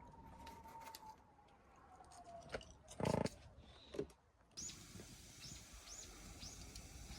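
Faint campfire crackle with scattered sharp pops and a short louder noisy burst about three seconds in. Then, after an abrupt change in the background, a bird chirping repeatedly, roughly twice a second.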